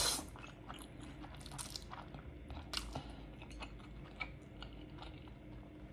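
A short noodle slurp right at the start, then quiet chewing of spicy instant ramen noodles with small, wet mouth clicks.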